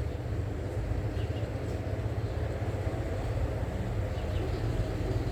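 A low steady rumble, with faint bird chirps a couple of times above it.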